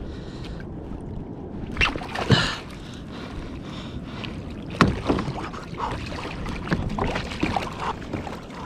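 Water splashing and sloshing around a fishing kayak, with sharp splashes or knocks about two seconds in and again near five seconds, as a hooked yellowfin tuna is brought alongside and landed.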